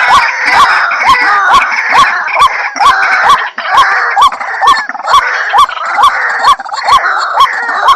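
White-breasted waterhen calling over and over: a short rising note repeated about two to three times a second, with sharp clicks between the notes, running on without a break.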